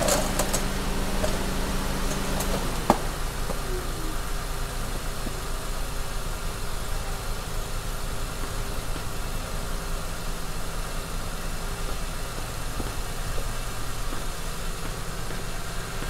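Honda Pilot's 3.5-litre V6 idling steadily, running to warm fresh oil just after an oil change. There is a single short click about three seconds in.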